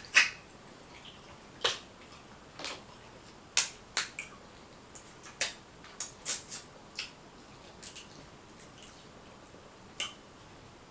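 Crab shells being cracked and picked apart while eating: irregular sharp snaps and clicks, the loudest right at the start.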